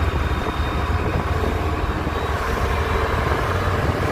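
Boat engine running steadily under way: a constant low rumble beneath an even rushing noise.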